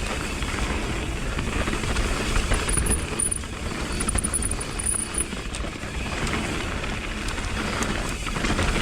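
Mountain bike descending a dirt trail at speed: steady wind rush on the microphone, tyres rolling over dirt and the bike rattling over bumps.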